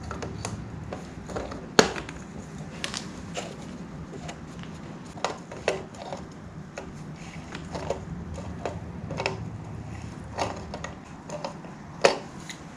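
Scattered clicks and knocks of metal and plastic parts being handled while the fuel filter bowl is refitted, with a sharper knock about two seconds in and another near the end, over a faint steady low hum.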